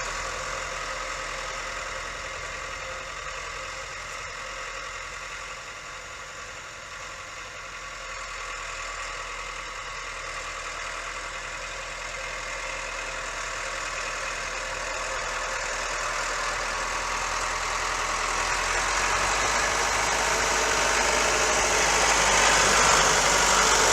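Ford 7710 tractor's diesel engine running steadily, growing louder through the second half.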